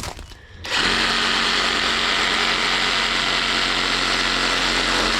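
Skil cordless reciprocating saw starts about a second in and runs steadily at an even speed.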